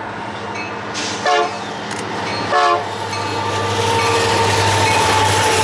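Union Pacific SD70M freight locomotives approaching: the engineer gives two short toots on the horn, about a second apart. Then the locomotives' EMD two-stroke diesel engines grow steadily louder as they close in, with a steady high tone running through the rumble.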